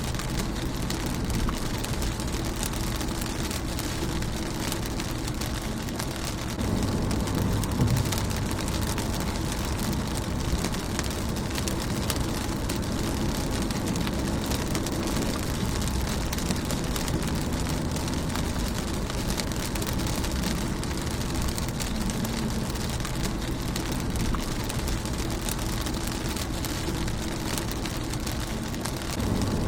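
Rain falling on a car's windshield: a steady patter of many small drops striking the glass. A low rumble underneath grows louder for a couple of seconds about seven seconds in.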